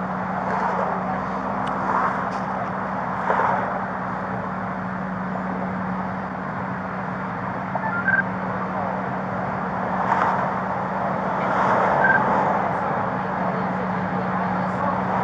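Freeway traffic noise with vehicles passing below, swelling and fading several times over a steady low hum. Two short high beeps sound partway through and near the end.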